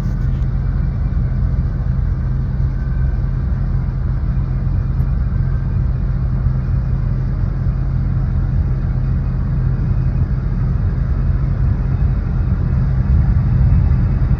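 Steady low rumble of a large aircraft's engines, growing slightly louder near the end.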